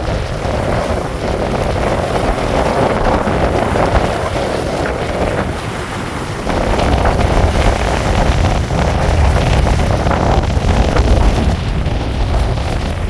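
Wind buffeting the microphone with a low, gusty rumble, over a steady hiss of falling rain. The gusts grow stronger about halfway through.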